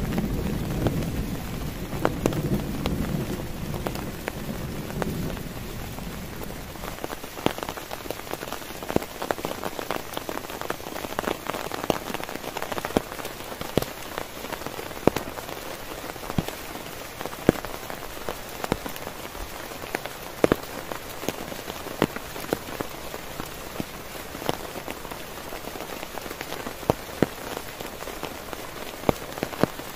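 Heavy rain falling on a tent, with many sharp individual drop hits over a steady patter. A low rumble of thunder fades away over the first few seconds.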